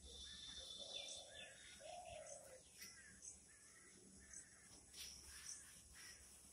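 Faint bird calls: a string of short calls, with two longer, lower calls about one and two seconds in.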